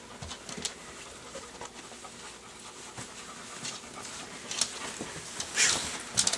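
Dog panting, with a few light clicks and one louder breathy puff near the end.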